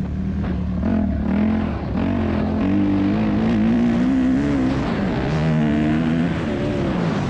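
Motocross bike's 2001 Yamaha YZ250F four-stroke single-cylinder engine, loud, its pitch rising and falling several times as the throttle is opened and rolled off.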